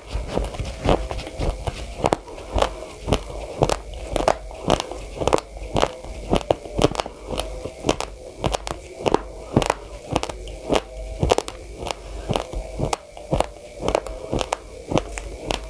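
Uncooked short-grain white rice being chewed by mouth: a continuous run of sharp, dry crunches as the hard grains break between the teeth, about two or three crunches a second.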